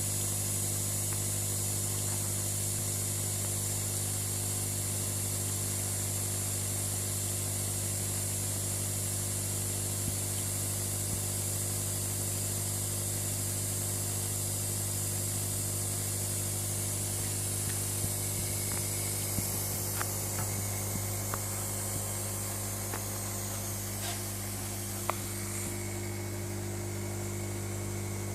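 Terrarium rain system spraying a fine mist, a steady hiss over a low hum. The hiss thins out about two-thirds of the way through, and a few water drops tick near the end.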